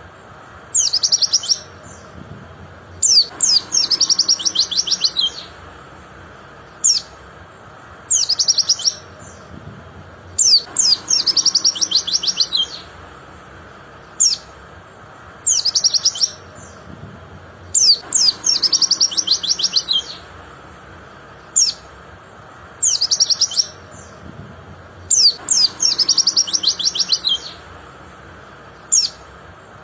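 Pleci (white-eye) singing: short, high, sharp notes alternating with longer rapid twittering phrases, the pattern repeating regularly about every seven seconds.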